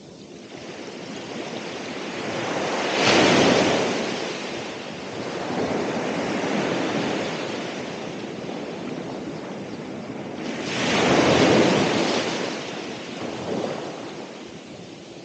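Ocean waves breaking and washing up the shore. The surf swells loudest twice, about three seconds in and again about eleven seconds in, with a smaller wave in between.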